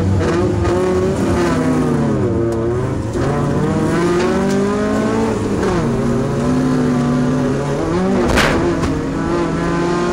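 Off-road race truck's engine under load, its pitch climbing and falling back several times as the throttle goes on and off or the gears change. There is a single sharp thump about eight seconds in.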